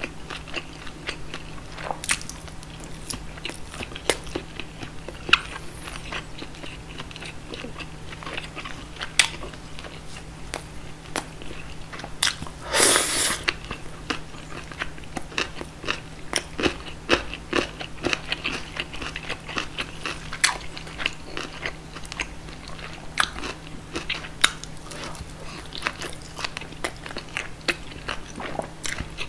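Close-miked chewing of roast pork knuckle: many quick wet mouth clicks and smacks with crunchy bites, and one louder rushing noise about 13 seconds in.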